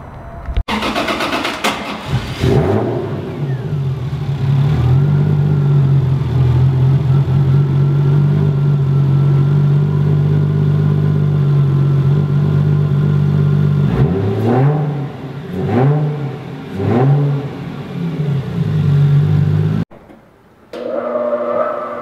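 Turbocharged 1.5JZ inline-six (Toyota 1JZ head on a 2JZ block) in a Nissan 240SX, running at a steady idle on the dyno. Then it is revved in several quick throttle blips that rise and fall. Near the end it settles back to a steady idle.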